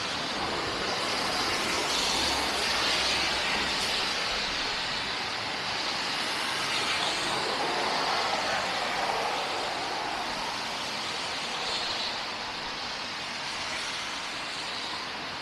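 City street traffic: vehicles passing with a steady noise of tyres, swelling twice and easing off near the end.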